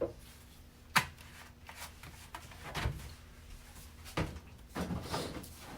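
Things being handled and put down in a kitchen: a few separate sharp knocks and clatters, the loudest about a second in, with more near the middle and end.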